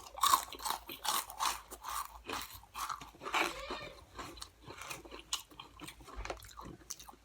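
Close-miked crunching and chewing of Cheetos Flamin' Hot crunchy cheese puffs in the mouth, a rapid series of crisp crunches, thickest in the first three seconds and thinning toward the end.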